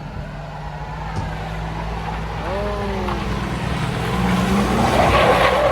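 Pickup truck engine running and revving, getting steadily louder, with a rushing noise building near the end as it starts to swing.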